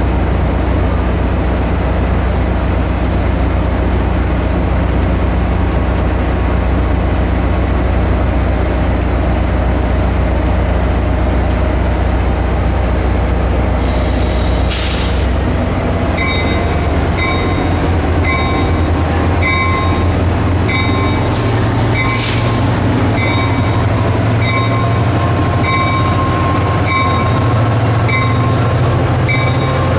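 Caltrain's EMD F40PH diesel locomotive pulling slowly into the station: a loud low engine drone that shifts about halfway through, with two short hisses. From about halfway on, a bell rings about once a second under a slowly rising high-pitched squeal.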